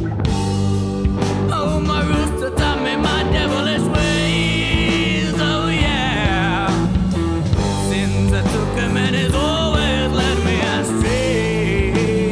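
Rock band playing an instrumental passage: a lead guitar line with bent, wavering notes over bass and drums.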